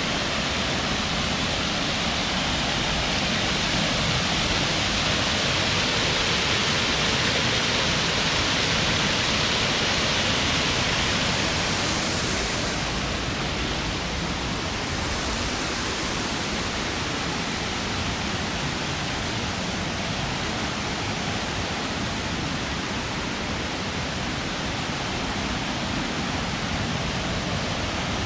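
Waterfall rushing: a steady roar of falling water, a little louder in the first half.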